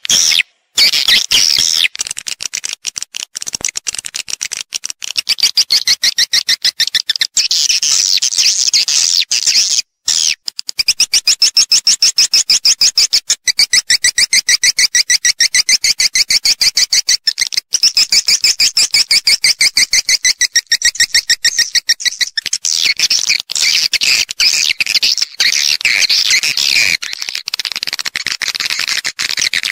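Recorded swiftlet calls played as a nest-house lure track: a dense, fast chatter of high chirps and clicks, many per second, with brief breaks near the start and about ten seconds in.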